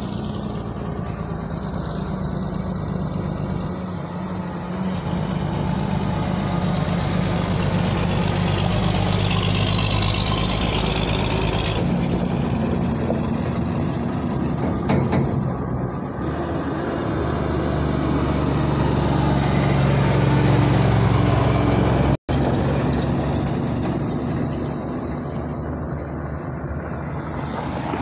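Heavy diesel trucks running. The low engine note shifts in pitch a few times and builds in loudness, then drops back after a momentary cut in the sound.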